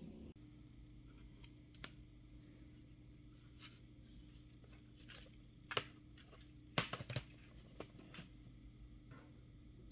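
Scattered, irregular clicks and taps of plastic keyboard parts being handled during work on an IBM Model M, the loudest a cluster of clicks about seven seconds in, over a steady low hum.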